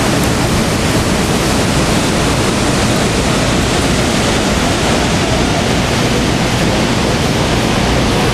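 Loud, steady rushing of water and wind aboard a Niagara Falls tour boat, with no break or change.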